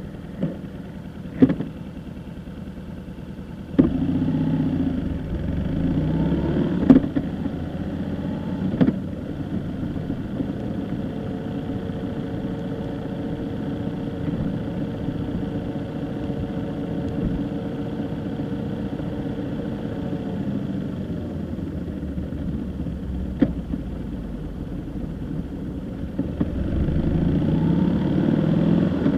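Car engine running while the car is driven, with a few sharp knocks. The engine note gets louder about four seconds in and again near the end.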